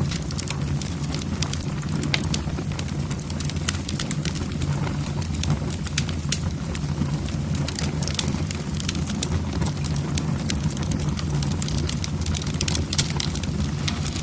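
Wood fire burning in a fireplace: logs crackling and popping irregularly over a steady low rumble of the flames.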